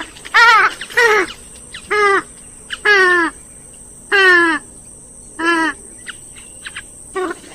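Grey-headed swamphen giving a series of harsh, nasal calls, each under half a second and falling in pitch, repeated about once a second with a few short pauses. A thin steady high-pitched tone runs behind them.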